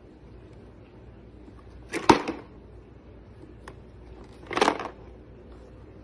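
Toy truck being handled by a toddler: a sharp click about two seconds in and a short clatter about four and a half seconds in, with a faint tick between them.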